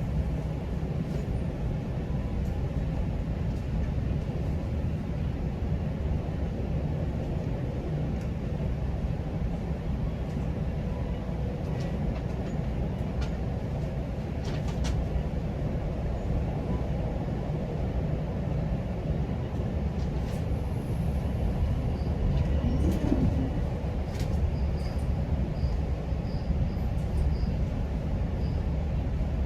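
GO Transit commuter train running along the track: a steady low rumble with scattered light clicks, swelling a little about two-thirds of the way through.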